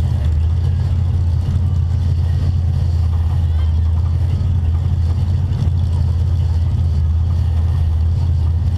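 Engine of a front-wheel-drive stock figure-8 race car idling steadily as a low drone, heard from inside its stripped cabin while the car sits still.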